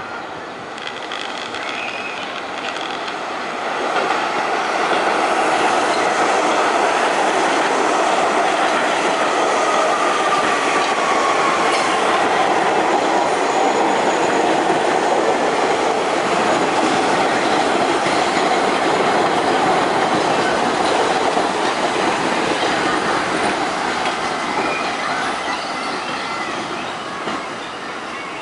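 Kawasaki R68A subway train pulling into a station: steady rumble of steel wheels on the rails with clatter and wheel squeal, rising about four seconds in and easing off toward the end. A falling whine runs through the middle as the train slows.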